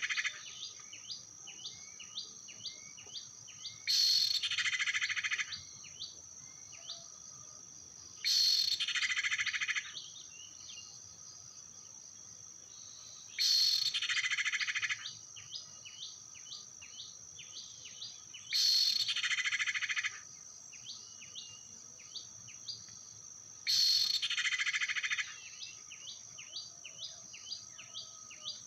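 Bird-lure recording of sirtu/cipow (common iora) calls. A loud harsh call lasting about a second and a half repeats every four to five seconds, with quick runs of short chirps between the calls over a steady high whine.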